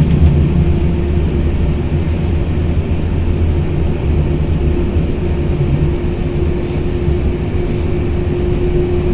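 Rail vehicle running on its track with a steady low rumble. A steady whine joins about halfway through.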